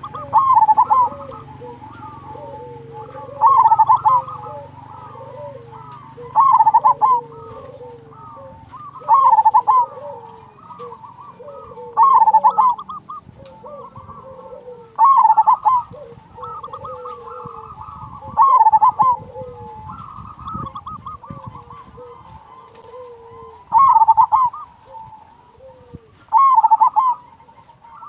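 Zebra doves (perkutut) cooing. A loud rolling coo phrase repeats about every three seconds, and a quieter, lower coo repeats more often between them until about two-thirds of the way through.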